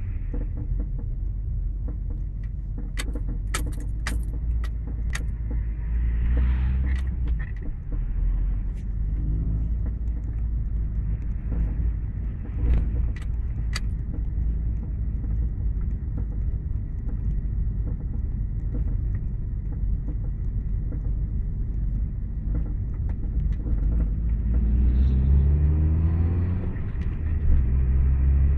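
Toyota Carina ED engine running, its revs rising briefly twice, with sharp knocks in short clusters. The knock comes from an engine mount that has worked loose.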